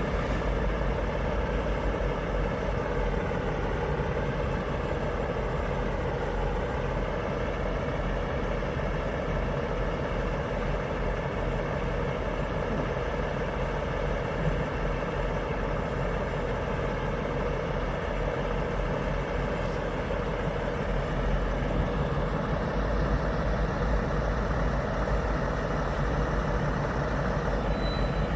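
Heavy truck engine idling steadily, a continuous low drone.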